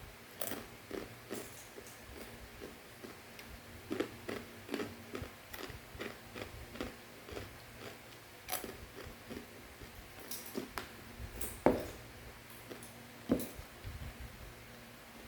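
Crunchy fried macaroni snack being chewed: irregular crisp crunches, with two louder crunches near the end.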